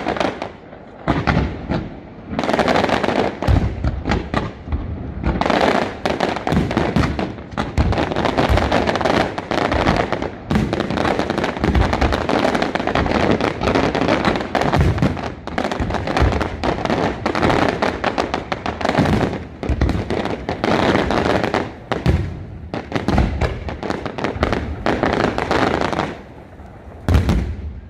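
Aerial fireworks display: a dense, nearly continuous barrage of shell bursts and crackling, with overlapping bangs. It eases off briefly a few times and once more near the end, just before a last loud burst.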